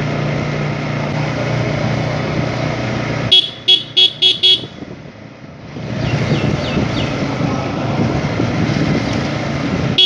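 Motorcycle riding with its engine running steadily, then a vehicle horn tooting five times in quick succession. After a brief lull comes the rush of wind and road noise of riding, and one more toot right at the end.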